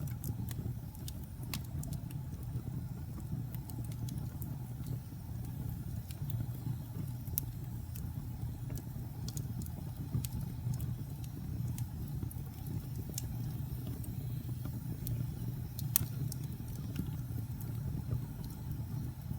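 Wood fire burning in a fireplace: a steady low rumble of the flames with scattered sharp crackles and pops from the logs, one louder pop about sixteen seconds in.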